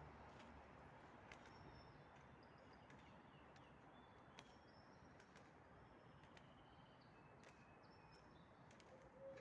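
Birds chirping faintly: short high-pitched calls and thin clicks scattered throughout, over a steady low background hiss, with one brief lower note near the end.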